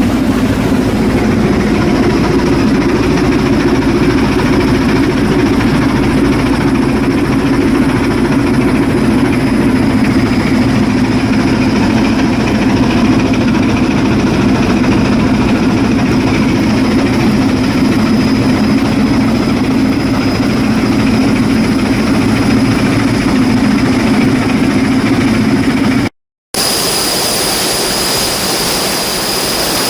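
Ship's diesel engine running steadily at load, a loud low drone with a thin high whine over it. About 26 s in the sound cuts off for a moment and resumes with the high whine more prominent.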